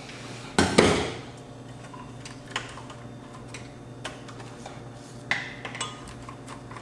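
Clicks and light knocks of a circuit board and its parts being handled, with two louder knocks a little under a second in and scattered small ticks after, over a faint steady hum.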